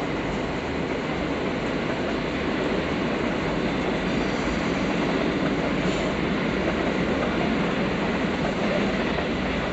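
C62 2 steam locomotive, a C62-class steam engine, giving off a loud, steady rushing noise with no chuff rhythm.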